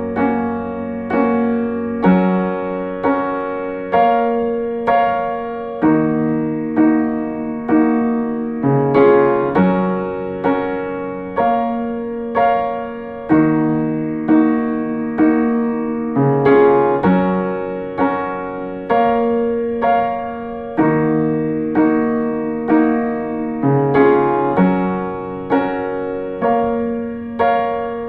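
Instrumental piano passage of a soft ballad, no singing: chords struck about once a second, each ringing and fading before the next.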